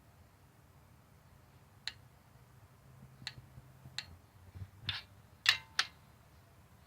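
About six sharp metallic clicks and taps from hand tools working on the head bolts, spread over a few seconds, the loudest two close together near the end.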